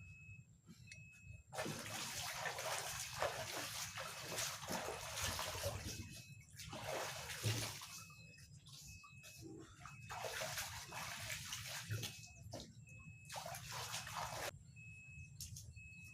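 Water pouring and splashing in four bursts of one to four seconds each, the first and longest near the start, with short pauses between them.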